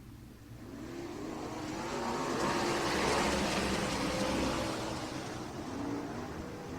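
A pack of ASCS 360 sprint cars under power on the restart, many engines together swelling in loudness as the field comes by, peaking about three seconds in, then easing off.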